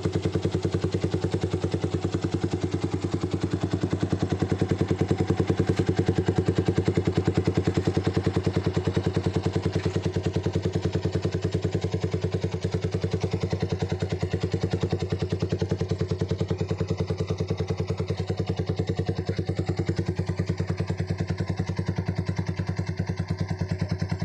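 Yamaha Vixion's single-cylinder four-stroke engine running at a steady idle through a JRM aftermarket racing muffler, a fast, even exhaust pulse.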